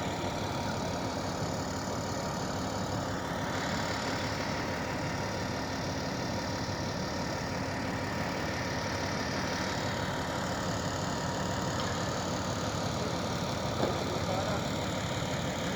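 An engine idling steadily, with a single sharp click near the end.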